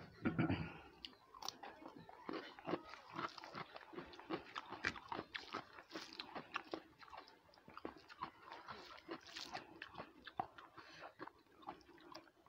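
Close-miked chewing of a mouthful of rice and curry, with many irregular wet clicks, smacks and crunches, and a louder burst of mouth noise in the first second.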